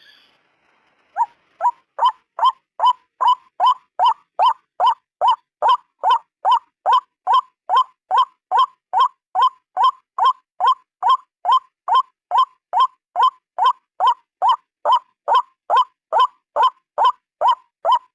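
White-breasted waterhen calling a rapid, even series of short, loud notes, about two to three a second, starting about a second in.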